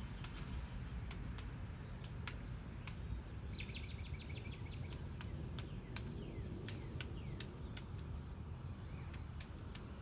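Outdoor birdsong: a small bird gives a rapid trill of high repeated notes, about ten a second, a little under four seconds in, and again faintly near the end. Scattered sharp clicks sit over a low steady background rumble.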